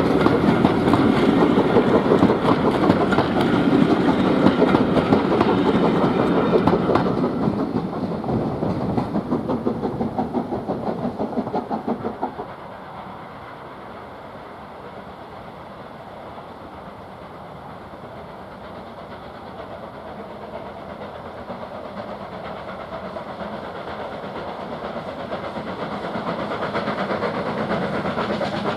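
A steam-hauled train passing close by, a loud fast beat of exhaust and wheels on the rails that fades away. The sound drops off suddenly about twelve seconds in, then a quieter train sound builds steadily louder toward the end.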